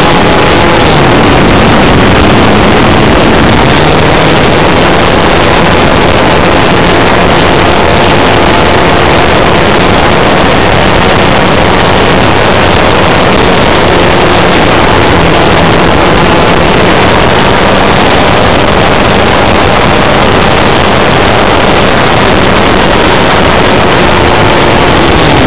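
Extra 300S Seagull model airplane's JBA75 engine running in flight, loud and buzzing, with heavy wind rush over the microphone; its pitch drifts gently up and down with the throttle.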